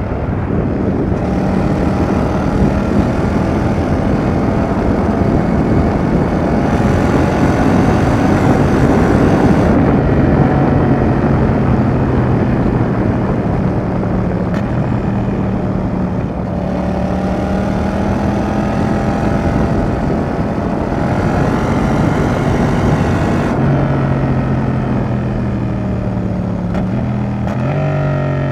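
Yamaha XSR700's parallel-twin engine running through an aftermarket Roadsitalia Double Fire exhaust while riding, over steady wind rush. The engine note drops in pitch about ten seconds in and again past twenty seconds, then rises near the end.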